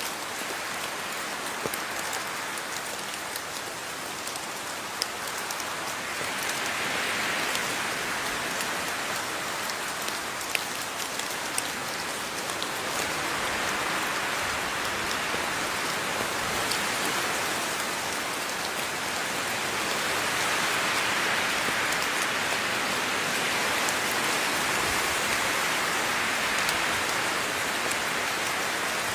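Steady rain falling on a surface, a dense hiss that swells and eases gently every several seconds, with occasional louder individual drops ticking through it.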